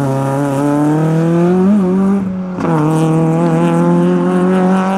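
Rally car engine accelerating hard out of a hairpin, its revs climbing. About halfway through the revs drop for an upshift, then climb again as the car pulls away.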